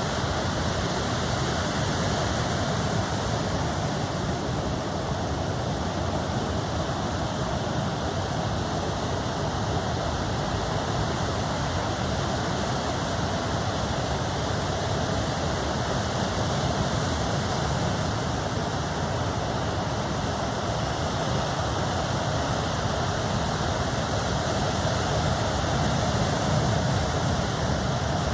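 Ocean surf breaking, heard as a steady, even rushing noise with no separate wave crashes standing out.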